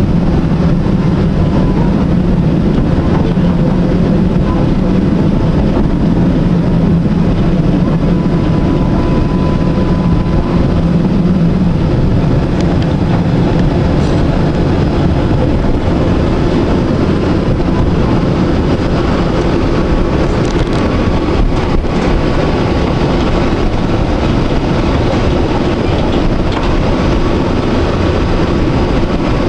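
Electric tram running along its rails, heard from on board: a steady rumble with a thin whine that comes and goes, and a few sharp clicks in the second half.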